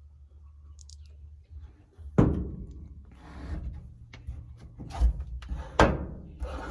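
A few sharp knocks and thumps, the loudest about two seconds in, after a low rumble.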